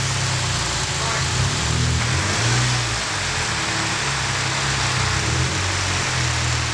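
Mitsubishi Lancer Evolution X's turbocharged four-cylinder engine running, its pitch shifting up and down slightly.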